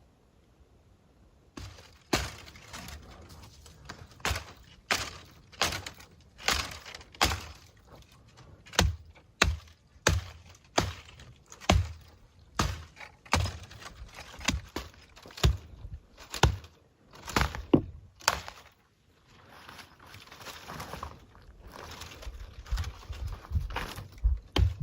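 Wood being struck and cracked: a long run of sharp thunks, roughly one every half second to second, starting a second and a half in and stopping about 18 seconds in, followed by softer crunching and rustling.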